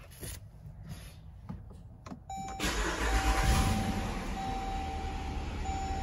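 Jeep Grand Cherokee engine cranking and starting about two and a half seconds in, then running steadily. A steady electronic tone, broken by short gaps, sounds just before and through the start.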